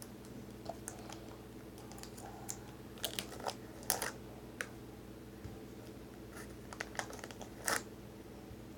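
Clicky jelly slime being squeezed and pulled out of its container by hand, giving scattered sharp clicks and crackles, with a cluster of louder pops a few seconds in and another near the end.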